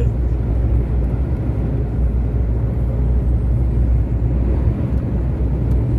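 Iveco Stralis truck driving steadily: a constant low engine drone with road and wind noise, heard from inside the cab.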